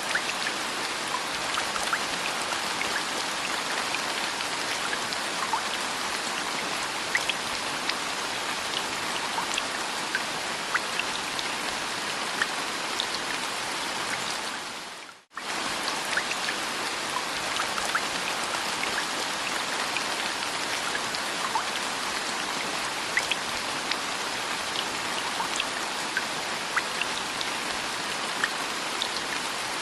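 Steady rain with scattered individual drops ticking. The sound fades out for a moment about halfway through and comes straight back.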